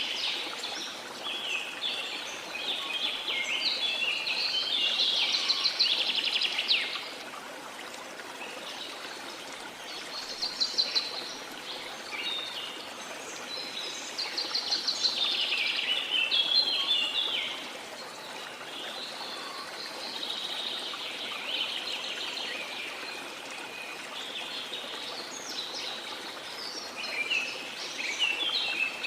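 Tropical forest birds singing in bursts of rapid trills and chirps every few seconds, over the steady rush of a waterfall.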